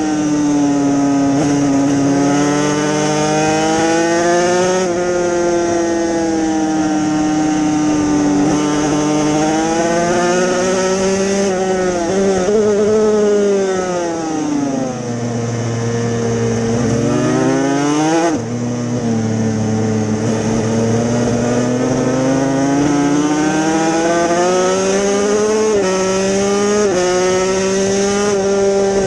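Yamaha TZ250 two-stroke racing motorcycle engine at high revs. The pitch climbs through each gear and breaks at every shift. About halfway through the revs sag, then jump and pull hard again.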